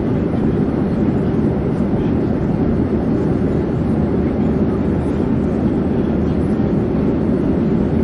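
Airplane in flight: a steady, low rushing drone.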